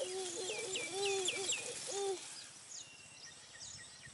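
Birds chirping: a quick run of about five repeated falling chirps around a second in, then higher sweeping calls a little later, over a low hooting call that stops about two seconds in.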